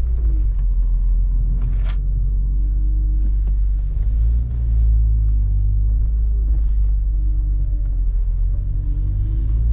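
BMW E46 M3's S54 straight-six and road noise heard from inside the cabin while driving: a steady low rumble, with faint engine tones rising and falling as the revs change. A single click about two seconds in.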